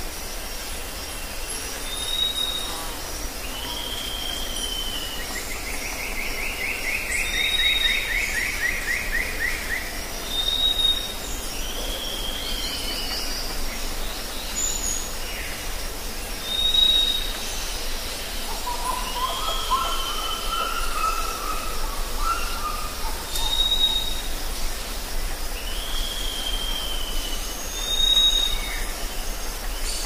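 Several forest birds calling over a steady background hiss. A short high whistle repeats every few seconds, answered by downward-sliding calls. A fast rattling trill comes in briefly near the start, and a lower warbling call about two-thirds through.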